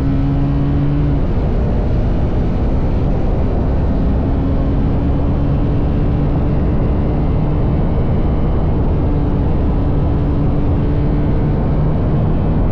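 TVS Apache RR310 single-cylinder engine through its stock exhaust, cruising at a steady note under a dense rush of wind noise. The engine note drops about a second in, then holds steady again and rises slightly near the end.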